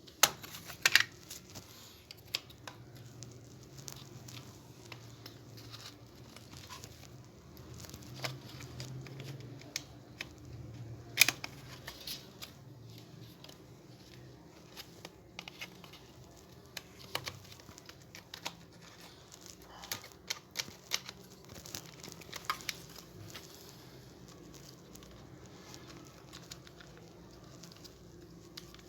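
Scattered sharp plastic clicks, taps and rattles as the housing of a foldable hair dryer is handled and fitted back together, with two louder knocks about a second in and about eleven seconds in.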